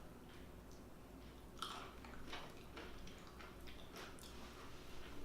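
A person chewing seafood, with faint wet mouth clicks and smacks that start about a second and a half in.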